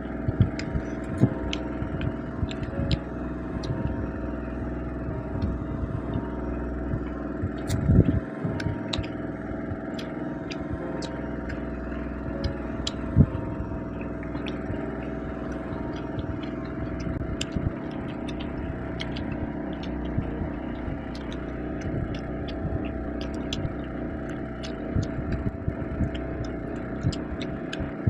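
Eating sounds as fish curry and rice are eaten by hand from plates: many small clicks and knocks over a steady background hum, with louder knocks about eight and thirteen seconds in.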